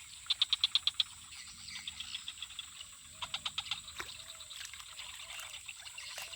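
Wild animal calls: two quick runs of sharp high clicking pulses, about ten a second, and from about halfway short low chirping notes repeating roughly twice a second.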